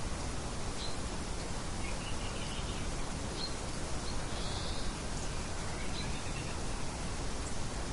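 Steady light wind noise, heaviest in the low end, with several faint, short bird chirps scattered through it.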